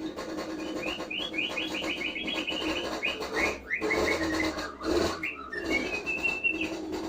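Caged songbird singing: a fast run of short chirps for a few seconds, then a single held whistled note near the end.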